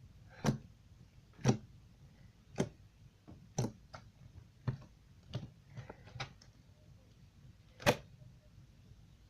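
Sand slime being poked on a desk: short sharp clicky taps, about one a second, the loudest one near the end.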